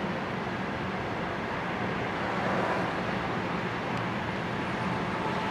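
Loaded coal hopper cars of a long freight train rolling past, a steady rumble of wheels on rail.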